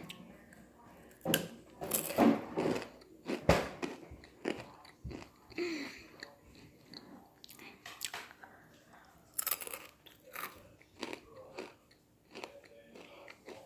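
Crunching bites and chewing of a Takis rolled corn tortilla chip: loud, irregular crunches in the first few seconds, then quieter chewing.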